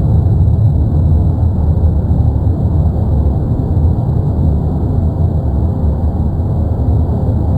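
Cumbre Vieja volcano on La Palma erupting: a loud, steady low rumble without breaks.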